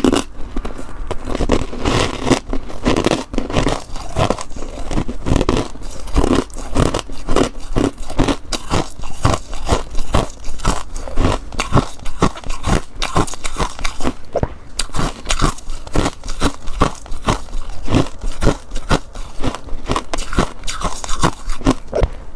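Close-up crunching of freezer frost being bitten and chewed, a rapid run of crisp crunches throughout.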